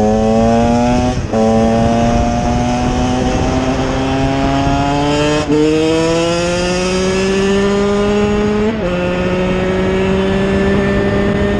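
Engine accelerating hard up through the gears, its pitch climbing steadily in each gear and dropping at three upshifts: about a second in, around five and a half seconds, and near nine seconds. A steady rush of wind and road noise runs underneath.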